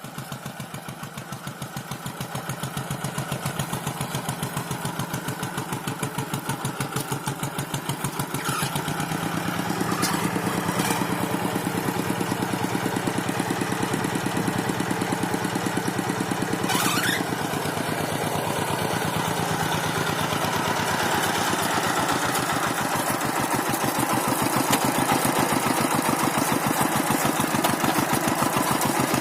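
Tractor engine running with a fast, even beat, growing somewhat louder over the first several seconds and then holding steady.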